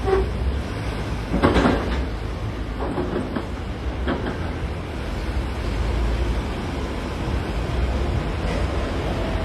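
Heavy diesel engine of a wheel loader running with a steady low rumble, with clanks and knocks of rock and steel: a loud one about a second and a half in and smaller ones around three and four seconds.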